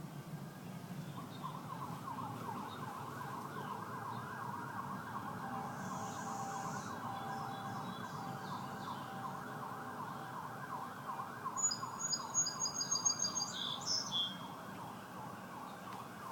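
An emergency-vehicle siren sweeping rapidly up and down in pitch, going on for most of the stretch. About twelve seconds in, a bird gives a quick run of high, evenly repeated chirps for about two seconds, the loudest sound here.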